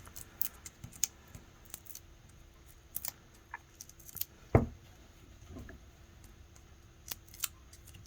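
Small clicks and rustles of hands handling cardstock and peeling the backings off foam adhesive dimensionals, with one louder knock about four and a half seconds in.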